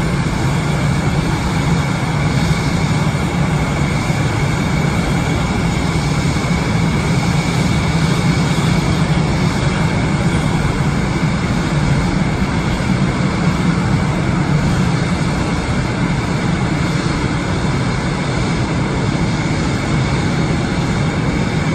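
Airbus A319 jet engines running steadily: a constant low rumble with a thin high whine held on one pitch.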